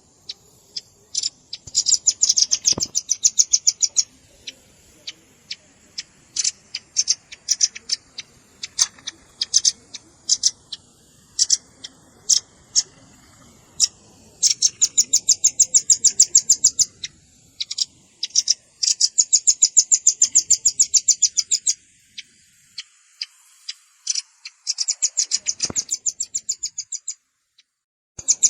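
Velvet-fronted nuthatch calling: fast, high rattling trills a few seconds long, four times, with scattered single sharp chips between them.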